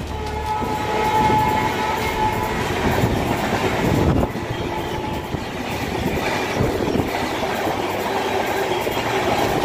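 Passenger coaches of an express train rushing past at speed, the wheels clattering over the rail joints with a dense rushing noise. In the first two seconds a held horn tone trails off.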